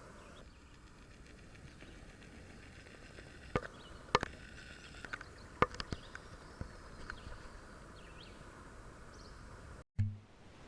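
Faint outdoor ambience with a handful of sharp knocks or clicks, the loudest two coming about four and five and a half seconds in. Near the end the sound cuts out completely for an instant and comes back with a short low thump.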